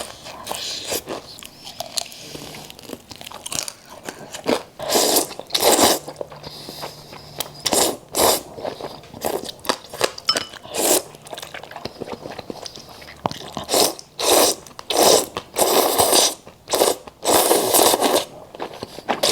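Close-miked eating: a person biting and chewing crunchy food, with a run of loud crunches that come in clusters and grow denser near the end.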